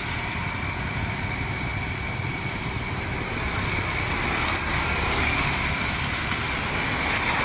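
Steady traffic noise in the rain: vehicles running on a wet road, a low rumble under a continuous hiss.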